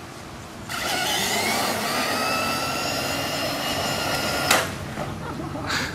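An RC car's motor whining as it speeds along at full throttle, its pitch rising slightly, then a sharp crash about four and a half seconds in as the car slams into a concrete block and breaks.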